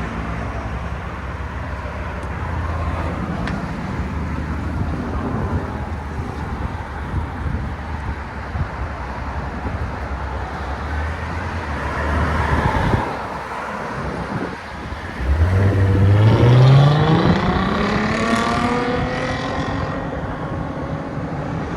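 Exhaust of a 2014 Lexus IS 250's 2.5-litre V6 fitted with Valvetronic Designs valved mufflers, running steadily at a low idle-like note. About 15 seconds in, the engine note climbs as the car accelerates, then holds at a higher, steady pitch.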